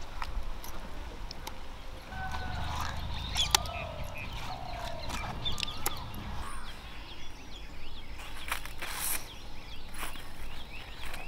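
Birds chirping and calling in short whistled notes, with scattered sharp clicks and a low rumble between about two and six and a half seconds in.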